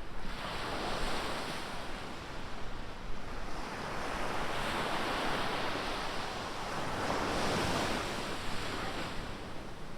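Ocean surf breaking on a beach: the wash swells in several surges, loudest from about four to eight seconds in, then falls back, with some wind on the microphone.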